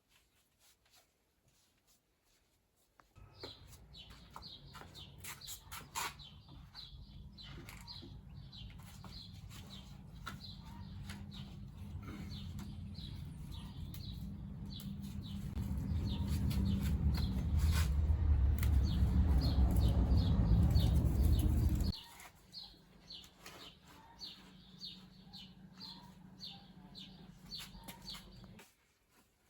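Birds chirping in quick repeated notes over a steady low hum. The hum grows louder and then cuts off suddenly about two-thirds of the way through.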